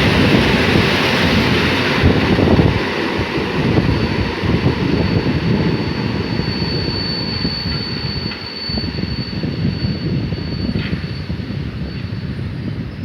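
Passenger train running past on the rails, the rolling noise loudest at first and slowly easing off. A thin high squeal holds from about five seconds in until near the end.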